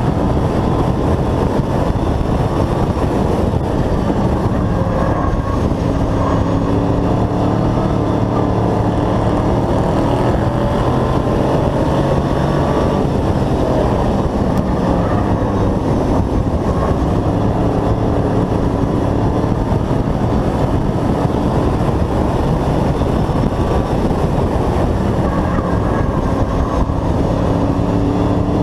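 Hobby-class race truck's engine running hard at race speed, heard from inside the vehicle; loud and continuous, its pitch dipping and rising a little as the throttle changes.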